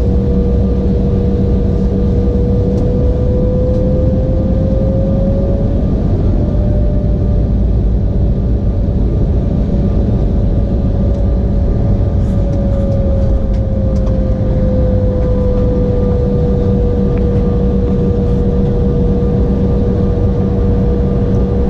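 Embraer E175's GE CF34 turbofan engines heard from inside the cabin at low power: a steady whine over a deep rumble. The whine rises a little in pitch about five seconds in, holds, and eases back down about fifteen seconds in, a small thrust change during taxi.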